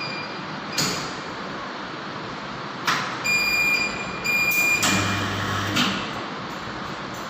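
Surge generator firing a test surge into a lightning-strike monitor: a sharp click, then two steady high electronic beeps, then a short loud burst with a low hum that ends in a click, over a steady hiss.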